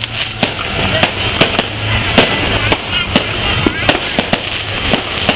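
Fireworks and firecrackers going off in sharp, unevenly spaced bangs, about three a second, over a steady crowd din.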